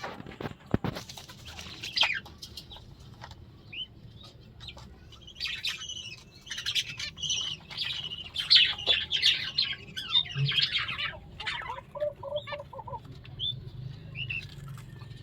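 Budgerigars chattering and chirping, with a busy stretch of warbling high notes in the middle and a quick run of short, lower repeated notes near the end.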